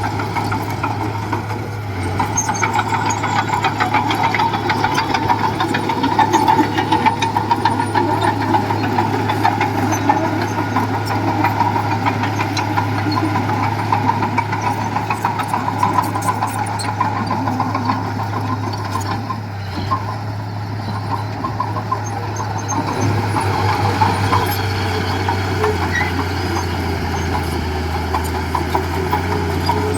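Diesel engine of heavy earthmoving machinery running steadily, with a fine rattling clatter over it.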